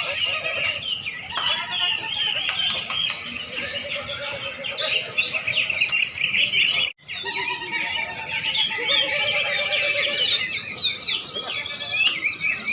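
Many caged songbirds singing at once, a dense overlapping mass of high chirps and trills. The sound cuts out briefly about seven seconds in.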